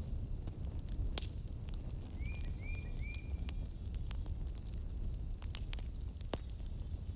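Wood fire burning in a fireplace: a low steady rumble of the flames with sharp crackles and pops scattered through. About two seconds in come three short, high chirps.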